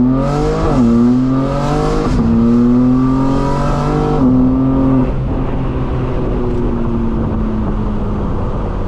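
Straight-piped BMW M4 Competition's twin-turbo inline-six pulling hard under acceleration, its note climbing and dropping back at two quick upshifts. About four seconds in it eases off and runs steady, the pitch slowly sinking as the car coasts.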